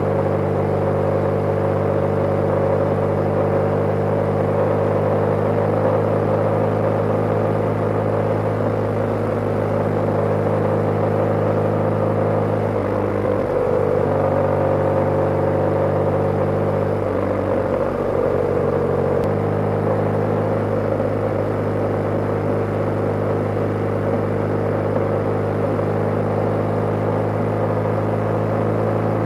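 BMW G/S motorcycle engine running steadily while riding. Its note shifts briefly about halfway through, then settles back to the same steady pitch.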